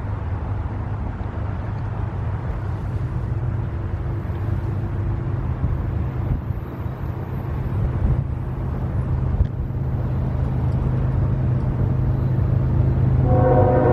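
Low, steady rumble of an approaching train that slowly grows louder, with the train's horn starting to blow just before the end.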